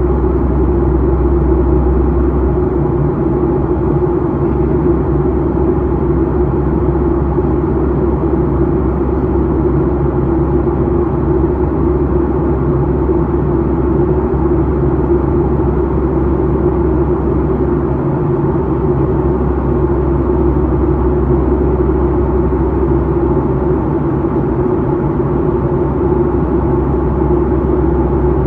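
Airliner cabin noise in flight: a loud, steady rumble with a constant hum over it.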